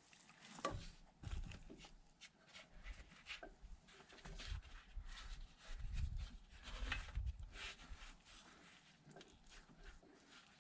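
Faint, irregular hand-work noises: scattered clicks, rustles and a few low knocks from tools and parts being handled.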